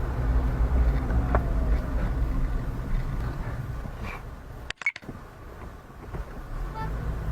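Steady low rumble of a car's engine and road noise, fading somewhat after a few seconds and briefly cutting out about two-thirds of the way through.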